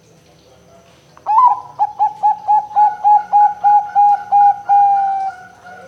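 Zebra dove (perkutut) cooing loudly: an opening note, then a quick run of about a dozen short coos, ending on a longer held coo that fades.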